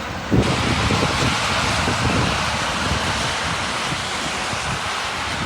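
Heavy rain pouring down while gusts of wind buffet the microphone with low, uneven rumbles.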